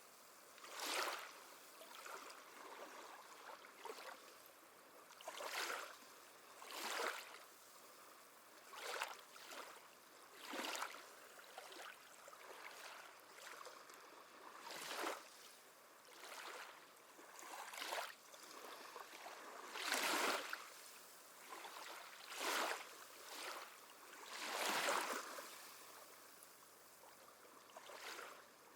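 Small waves lapping at the shore: a soft splash of water every one to two seconds over a faint steady wash, with a few larger splashes in the second half.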